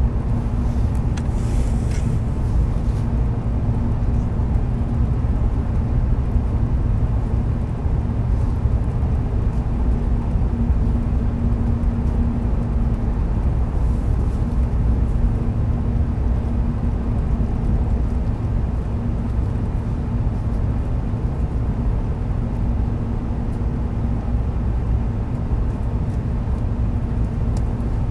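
Running noise of a JR West 700 series Shinkansen train heard inside the passenger car: a steady low rumble with a faint steady hum through it.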